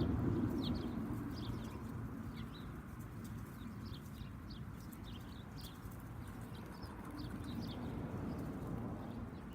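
Small backyard birds chirping: many short, high chirps in quick succession over a steady low background rumble.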